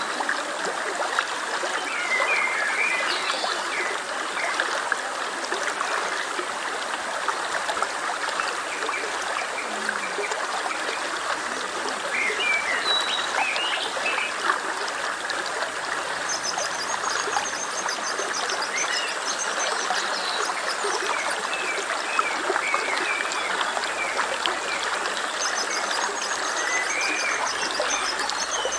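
A stream flowing with a steady rushing and trickling, and birds chirping now and then over it. A rapid high trill comes in twice in the second half.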